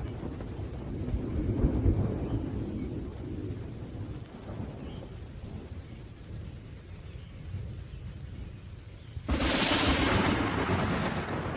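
Thunderstorm with rain: low thunder rumbling and slowly dying away, then a sudden sharp thunderclap about nine seconds in, followed by more rumbling.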